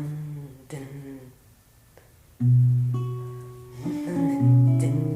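Music played on plucked strings, like a guitar. A few quiet notes come first; about halfway through, a loud low note rings out with higher notes plucked over it, and another low note follows near the end.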